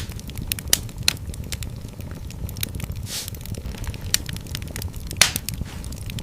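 Wood fire in a fireplace crackling, with sharp pops about a second in and a louder one near the end, over the low rumble of the flames. A brief hiss comes midway.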